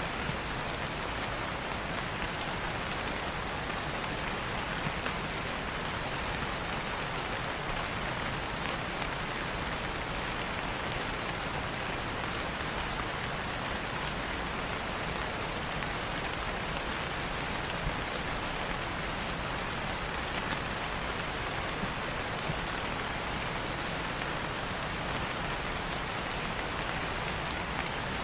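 Steady rain falling on leaves, an even rushing patter with a few slightly louder drops.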